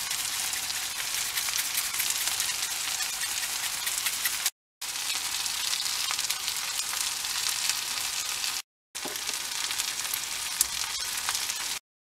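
Crumb-breaded chicken pieces frying in a nonstick pan: a steady crackling sizzle, with three short gaps of silence.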